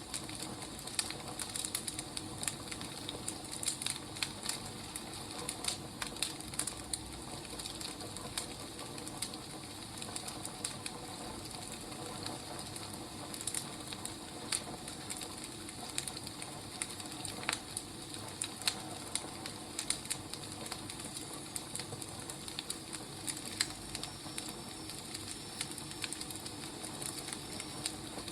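Wood fire crackling: irregular pops and snaps over a steady low hiss.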